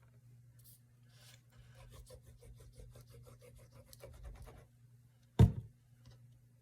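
Rapid scratchy rubbing of hands working paper craft materials on a tabletop, then a single sharp knock a little past five seconds in, the loudest sound, all over a steady low hum.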